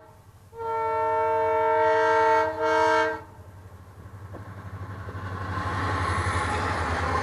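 A loud horn sounding several tones together: a long blast, a brief break, then a short second blast. A low rumble then builds over the last few seconds.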